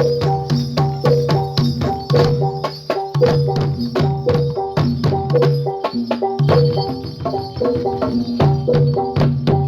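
Javanese gamelan accompaniment for jathilan dance: drum and tuned metal percussion playing a fast, repeating pattern of strikes over sustained low gong-like notes.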